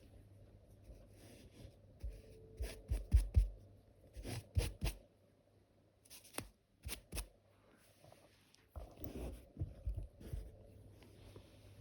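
Close-up scratching and crackling of an ear pick working inside an ear canal, in three bursts of sharp clicks and scrapes over a steady low hum.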